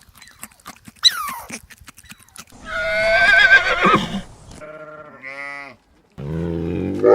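A string of separate animal calls, one after another: a short call falling in pitch about a second in, a long wavering call in the middle, a brief stepped call, then a lower, louder call starting near the end.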